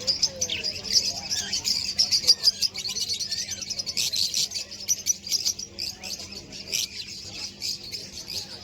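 Many small birds chirping at once in a rapid, continuous chatter of short high notes, thinning slightly towards the end.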